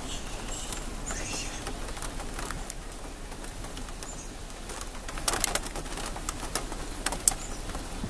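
Birds chirping over a steady background hiss, with a short cluster of sharp clicks about five seconds in and another sharp click a couple of seconds later.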